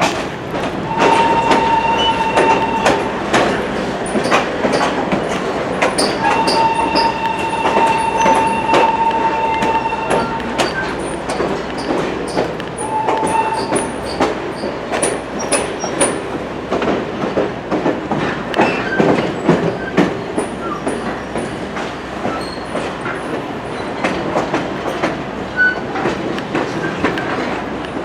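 Heritage passenger train running on jointed track, its wheels clacking with many sharp clicks over the rail joints. A high steady squealing tone sounds three times: for about two seconds a second in, for about four seconds from around six seconds, and briefly near thirteen seconds.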